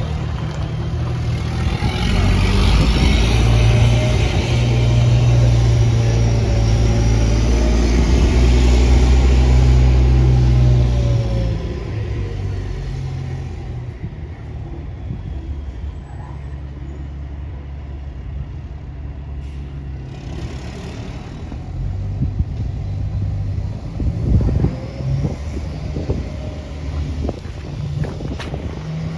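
Volvo VM 260 truck's diesel engine running. It is loud for about the first ten seconds, with a high whistle that rises and falls, then drops back to a lower, steady level with a few short knocks near the end.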